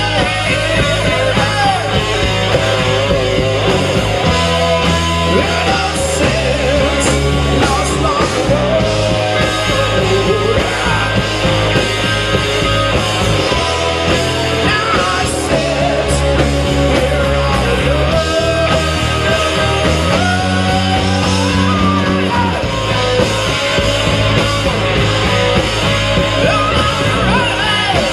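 Live rock band playing loud and steady, with distorted guitars, bass, drums and a singer's voice.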